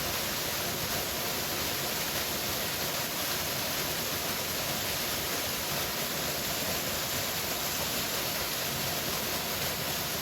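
Powerful waterfall rushing steadily, an even, unbroken wash of water noise.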